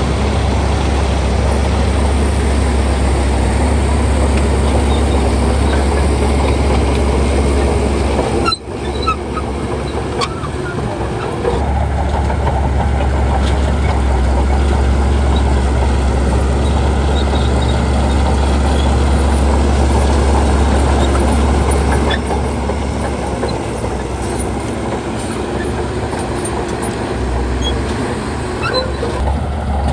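Diesel engine of a Shantui crawler bulldozer running steadily under load, a deep continuous engine sound with machine noise over it. The sound cuts out for an instant about eight and a half seconds in, then carries on a little quieter for the last several seconds.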